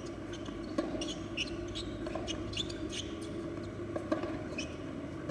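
Small birds chirping in quick, irregular short notes over a steady low background hum, with a sharp knock twice.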